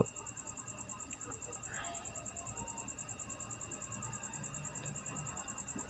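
Faint background noise with a steady high-pitched pulsing trill and a fainter steady whine beneath it.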